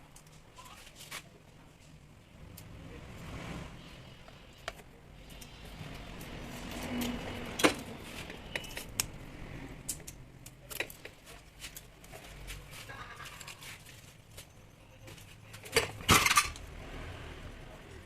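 Small metal parts and hand tools clicking and clinking as they are handled during the disassembly of a rotary hammer, in scattered light taps, with one sharp click about halfway and a louder burst of clatter near the end.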